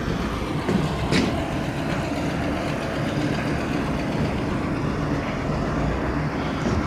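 A motor running steadily, with a sharp click about a second in.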